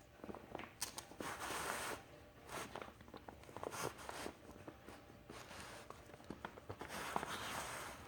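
Cardboard firework cake boxes being handled: bursts of rustling and scraping, several seconds apart, with light knocks and clicks.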